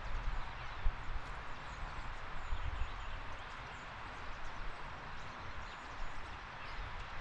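Backyard outdoor ambience: a steady hiss with low wind rumble on the microphone and a few faint, short bird chirps.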